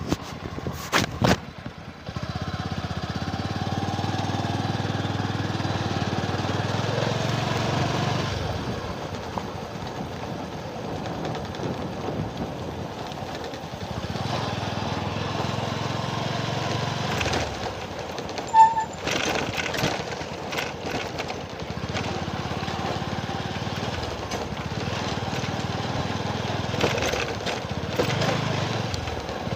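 A small engine running steadily, its note rising and easing at times, with a few clicks near the start and a brief sharp high tone about two-thirds of the way through.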